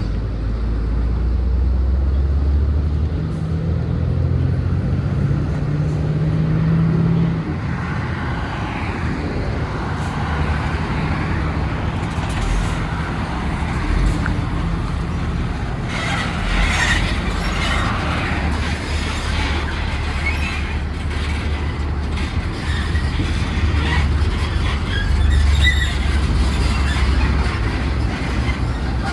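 Heavy truck diesel engine running, with the revs climbing about three seconds in and easing off around seven seconds.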